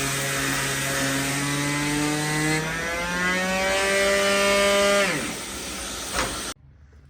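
Electric power sander running with a steady motor whine whose pitch climbs slowly, then switched off about five seconds in and spinning down with a falling whine. A sharp knock follows, then the sound cuts off abruptly.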